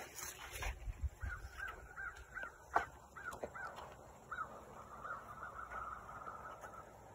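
A bird calling outdoors in a quick series of short repeated notes, about three a second, that run together into a denser chatter in the second half. There are a few low thumps near the start and a single sharp click about three seconds in.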